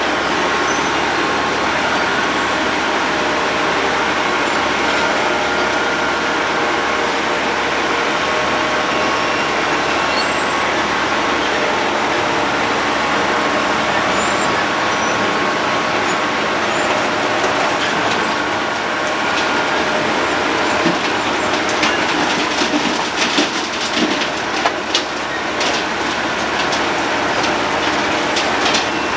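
Road planer (cold milling machine) working, its diesel engine running steadily under load with the milling drum grinding. From about two-thirds of the way in, a rapid clatter of sharp knocks joins the steady noise.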